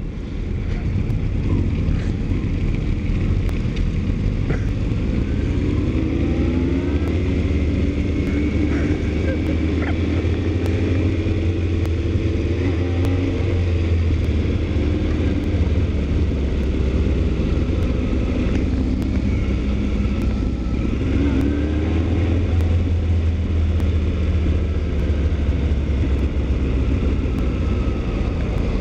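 Motorcycle riding: the engine runs with its pitch rising and falling under a steady low rumble of wind on the microphone.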